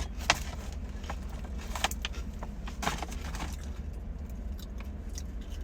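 Scattered small crinkles and clicks from handling a potato chip bag and snacking, over a steady low rumble.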